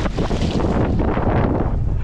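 Strong wind buffeting the microphone on a small boat, with a constant low rumble and repeated rushes of water noise every second or so.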